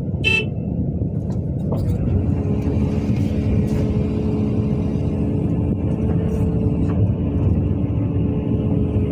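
Heavy diesel engine of a CAT 320DL excavator running steadily while it works. A brief high-pitched tone sounds near the start, and from about two seconds in a steady hum comes up under the engine noise.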